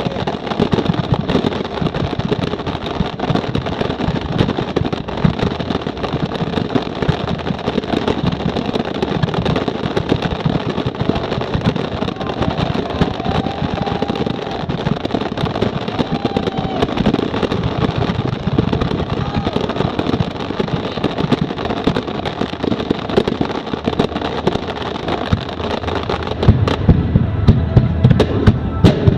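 Fireworks display: a rapid, dense run of aerial shell bursts and crackling, growing heavier with deeper booms near the end.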